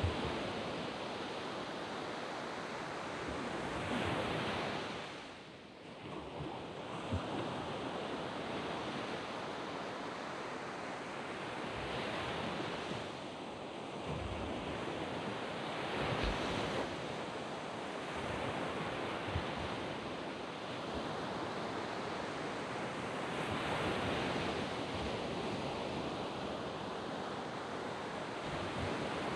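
Surf washing onto a sand beach in a continuous rush, swelling as each wave breaks every several seconds, with a brief lull about six seconds in.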